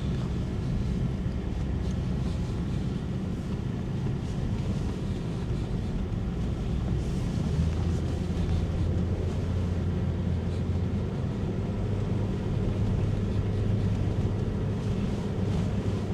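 Vehicle driving steadily: a continuous low engine drone with road and wind noise, its low hum growing stronger about halfway through.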